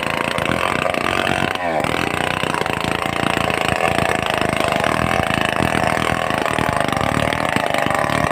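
Stihl 070 two-stroke chainsaw engine running steadily, with a brief dip and rise in pitch about a second and a half in.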